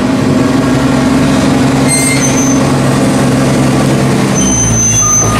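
Large diesel engine of a farm machine running steadily. Its pitch drops about four and a half seconds in, and a reversing beeper starts sounding near the end.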